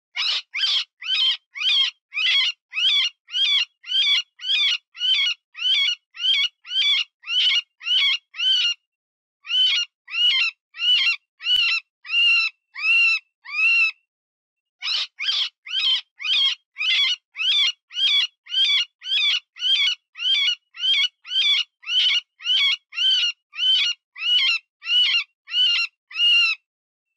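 Cottontail rabbit distress call used as a predator lure: short, high-pitched squeals repeated about twice a second, in three long runs with brief pauses between them.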